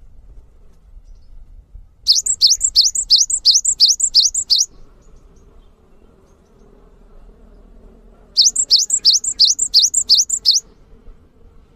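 Songbird song from a masteran tutoring recording: two bouts of quick, repeated high chirps, each sweeping upward in pitch, about three to four a second. Each bout lasts a couple of seconds, the first about two seconds in and the second near the end.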